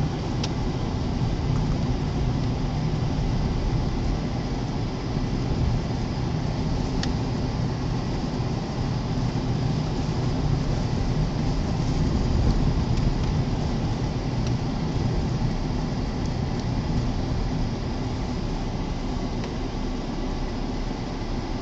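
Steady low rumble inside a moving car's cabin: the engine and large snow tyres on a snowy road, with a gusting blizzard wind against the car. Two faint ticks are heard, one right at the start and one about a third of the way in.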